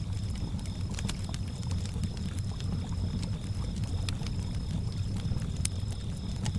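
Campfire ambience: a wood fire crackling with scattered sharp pops over water lapping at a lakeshore, and crickets chirping in a steady high-pitched pulse.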